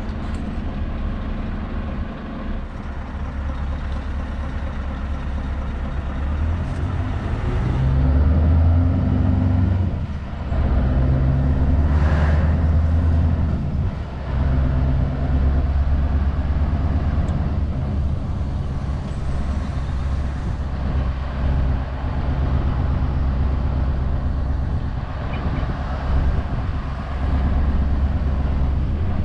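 Scania S650's 16-litre V8 diesel pulling the truck along under load, its note climbing and dropping off briefly twice where gears change. A short hiss about twelve seconds in.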